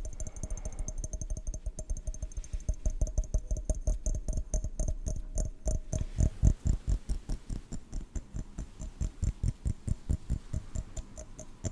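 Rapid, uneven tapping on a hard object that rings faintly between strokes.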